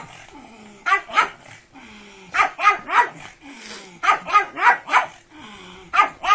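Pug barking excitedly in quick bursts of two to four yappy barks, a burst about every second and a half.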